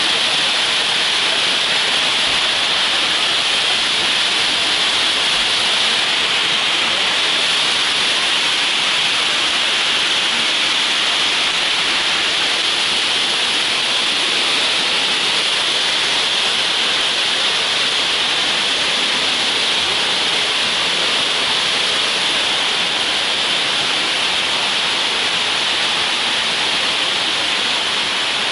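A waterfall's falling water making a loud, steady rush.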